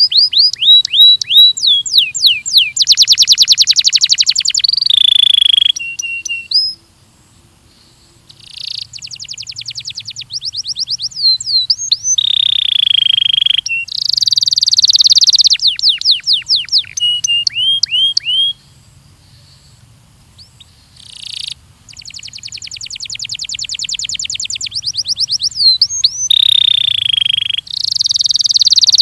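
Belgian canary singing: fast trills of rapidly repeated notes alternating with runs of quick downward-sweeping whistles, in phrases broken by two pauses of a couple of seconds, about a quarter and two-thirds of the way in.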